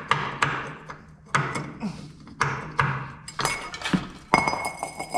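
Hammer blows on steel: about ten sharp knocks at uneven intervals, the later ones ringing, as a crankshaft pulley is worked loose. A steady low hum runs underneath.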